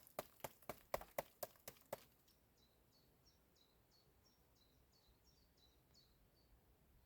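A quick run of sharp clicks or knocks, about four a second, that stops about two seconds in. Then only faint, repeated bird chirps.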